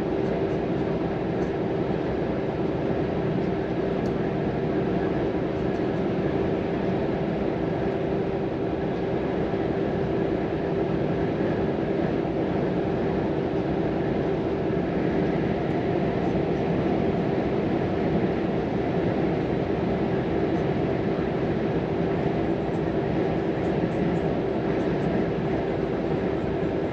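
Volvo FM 420 truck's 13-litre six-cylinder diesel running at a steady cruise, heard from inside the cab together with tyre and road noise, with one steady hum over the noise.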